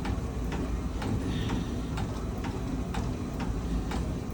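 Stationary exercise bike being pedalled steadily: a regular click about two and a half times a second over a low hum.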